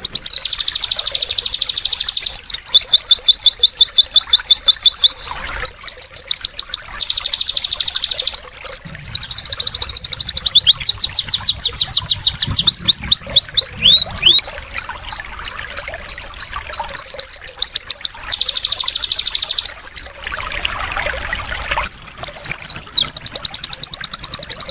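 White-eye (pleci) song: long runs of loud, very fast high trills and chirps with quick sweeping notes, broken by two short pauses. A trickle of water is heard in the pauses.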